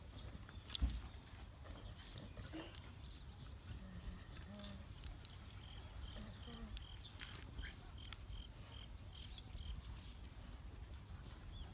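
Campfire crackling in scattered sharp pops, with a series of short high-pitched peeps repeating a few times a second, shifting slightly lower in pitch about four seconds in.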